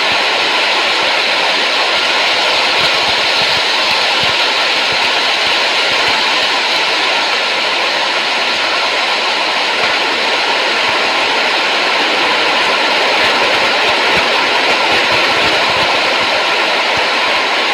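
Steady, even rushing noise that never changes, with a faint thin steady whine running through it.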